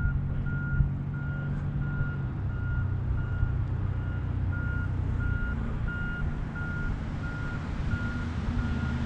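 Radio-control transmitter beeping steadily, short high beeps a little under two per second, over the low drone of the model airplane's motor and propeller.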